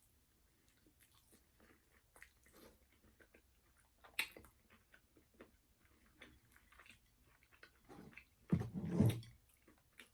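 Close-miked chewing and crunching of crispy fried chicken, with scattered small crunches, a sharp crunch about four seconds in, and a louder, deeper sound near the end.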